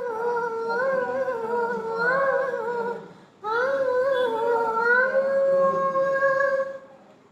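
Background music: a high voice humming a wordless melody in two long, gliding phrases, with a brief break a little over three seconds in.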